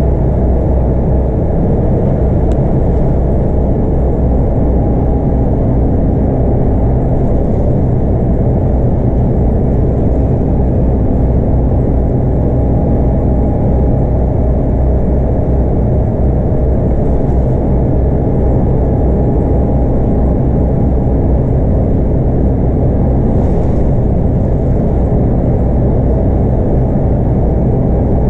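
Scania DC9 five-cylinder 8.9-litre diesel engine of a Scania K230UB city bus running steadily under way, with road and tyre rumble; the level and pitch hold even throughout, with no gear changes or braking.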